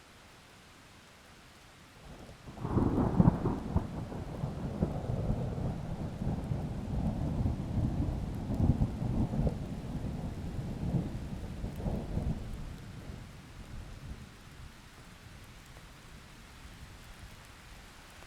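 A roll of thunder over steady rain: it breaks in sharply about two and a half seconds in, rumbles low for about ten seconds and dies away, leaving the rain hiss.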